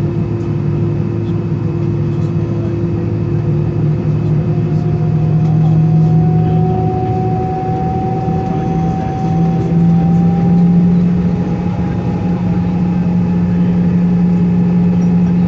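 Cabin noise inside an Airbus A320-214: the CFM56 turbofans' steady drone with a low hum and an engine whine that slowly rises in pitch.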